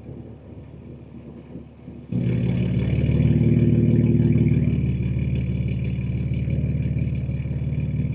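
BMW M2 G87's S58 twin-turbo inline-six, exhaust fitted with catless downpipes and an equal-length mid pipe, rumbling quietly at low load, then opening up suddenly about two seconds in under throttle and pulling loudly in gear.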